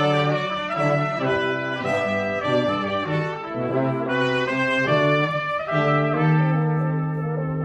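Brass quartet playing together: trumpets and trombone in moving chords over the bass line, which settles into a long held low note about six seconds in.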